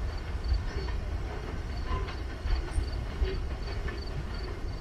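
CSX freight train rolling past: a heavy low rumble with scattered wheel clicks on the rails. A faint high ticking repeats about three times a second.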